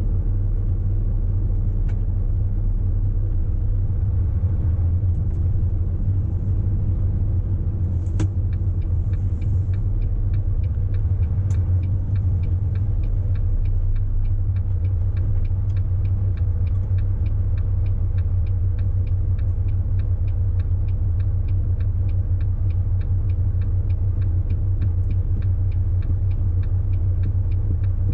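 A truck cab interior with the low, steady rumble of the engine and road while driving. From about eight seconds in, a fast, even clicking joins and keeps going.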